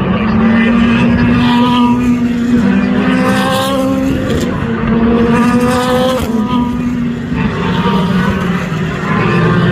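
Race car engines accelerating hard through the gears, the pitch climbing in four or five rises that each break off at an upshift, over a steady engine drone from other cars.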